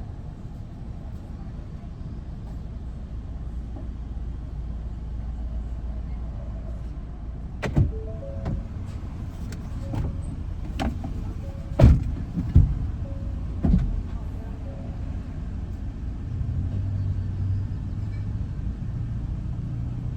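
Steady low rumble of a vehicle on the road, with a handful of sharp knocks and clunks in the middle, two of them louder than the rest.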